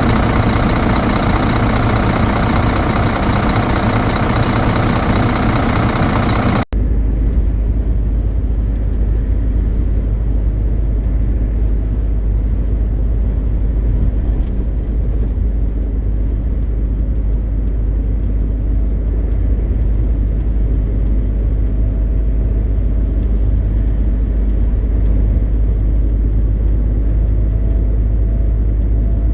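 MAN TGX 520 truck's 12.4-litre inline-six diesel running with road noise while driving, a steady deep rumble. About seven seconds in the sound cuts briefly and the rumble continues.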